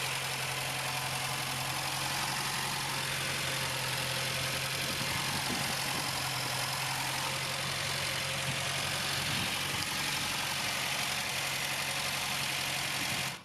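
1976 Volkswagen Golf I's 1.6-litre four-cylinder engine idling steadily, until the sound cuts off abruptly at the very end.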